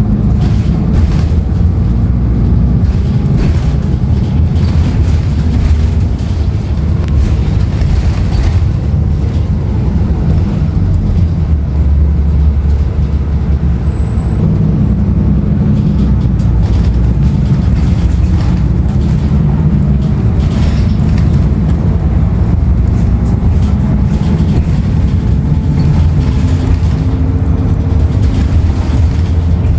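Cabin noise inside a moving Nova Bus LFS transit bus: its Cummins ISL9 diesel engine running with road and tyre noise, loud and steady.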